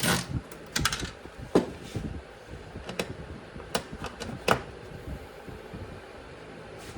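Irregular sharp clicks and knocks of hand tools and small parts being handled while working on a jet ski's electrical box wiring, about a dozen in the first few seconds, then only a faint steady hum.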